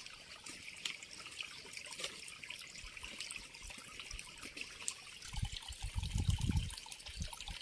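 Steady trickling water with many small crackles and splashes. From about two-thirds of the way in, low rumbling thuds come and go beneath it.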